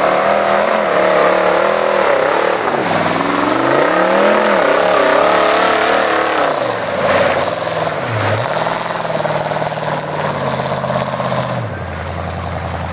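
Mud truck's engine running through Cherry Bomb mufflers with the exhaust coming up through the back, revved up and down several times. It then holds steady and drops to a low idle near the end.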